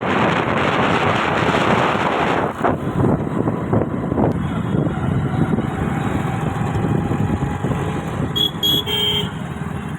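Road vehicle noise, a steady rumble of traffic and motor, loudest in the first couple of seconds. Near the end come three short, high horn toots in quick succession.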